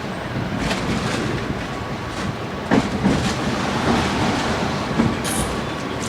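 Tram running on its rails: a steady rumble with repeated sharp clicks and knocks from the wheels over the track, the loudest a little under three seconds in.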